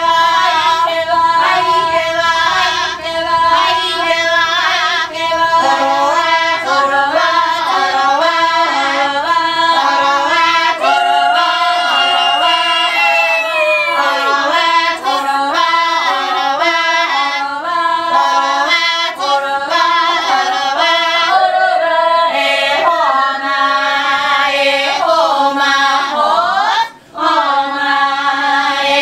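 Ainu traditional song sung by a group of voices, mostly women's, several voices overlapping in a stepping melody with occasional long sliding notes. There is a brief break near the end.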